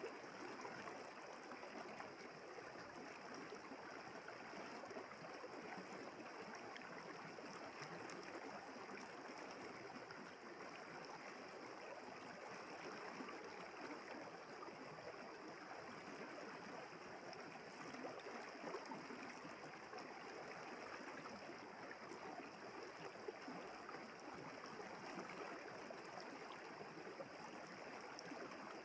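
Village river flowing steadily: a soft, even rush of running water.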